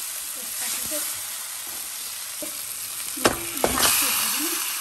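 Masala paste frying in oil in a karahi, sizzling as a wooden spoon stirs it. About three seconds in there are two sharp knocks as pieces of raw goat meat on the bone go into the pan, and the sizzle turns louder and brighter as the meat hits the hot oil.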